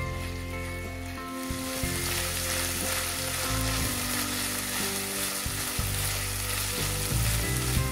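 Food frying in oil in a pan: a steady sizzle that grows louder about a second and a half in.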